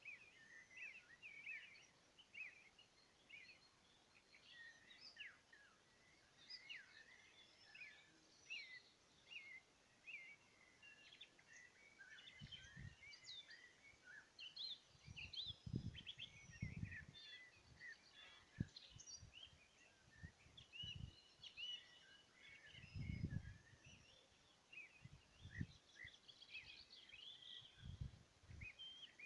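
Several songbirds singing and calling at once, a dense mix of short chirps and trills, faint throughout. From about twelve seconds in, a handful of brief low rumbles come and go beneath the birdsong.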